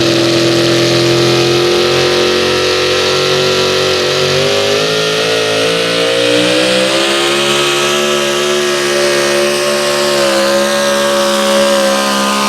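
Pulling vehicle's engine at full throttle down the track, one loud steady note that climbs slowly in pitch as the run goes on.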